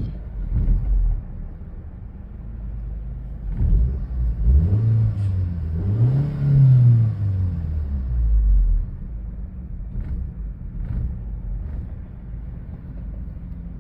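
Audi A4 B7 2.0 turbo four-cylinder engine idling, then revved twice in quick succession about four to eight seconds in, the pitch rising and falling each time before it settles back to idle. The engine has a rough-idle and stalling fault, and hitting the throttle is rough.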